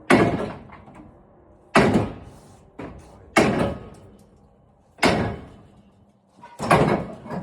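Five heavy thuds, one about every second and a half, each dying away quickly.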